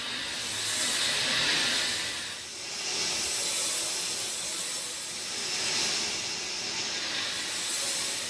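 Steady rain falling, a dense hiss that swells and eases every two to three seconds.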